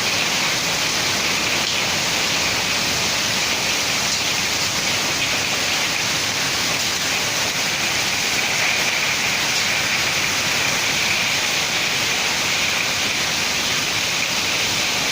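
Heavy rain pouring down steadily in a severe storm, a dense, even hiss with no let-up.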